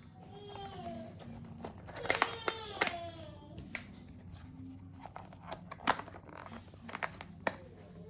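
A young child's voice, two short high-pitched vocalisations in the first half, with scattered sharp clicks and knocks of handling objects in a small room.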